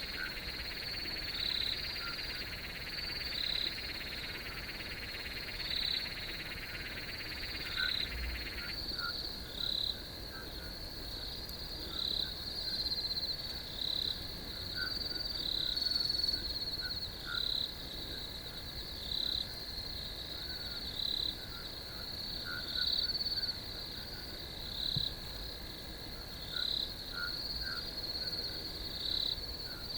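Night chorus of crickets and frogs: a steady high trill, with a call repeating about every second and a half and shorter chirps underneath. A second insect buzz stops about nine seconds in.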